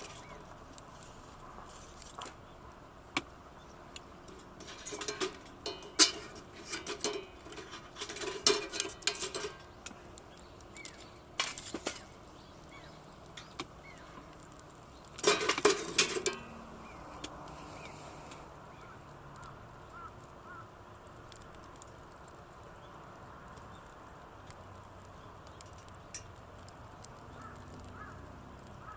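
Camping gear being handled: intermittent metallic clinking and clattering in short bursts with scattered single clicks, the loudest burst about halfway through.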